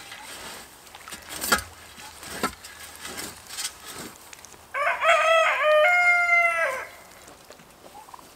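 A rooster crows once, a single call of about two seconds starting around the middle. A few sharp knocks come before it.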